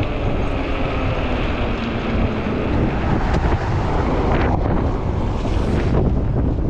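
Strong wind buffeting the microphone on a moving e-bike, a steady low rumble of wind noise.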